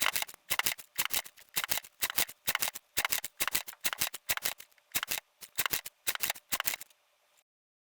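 A rapid, uneven series of sharp clicks and clacks in small clusters, stopping abruptly about seven seconds in.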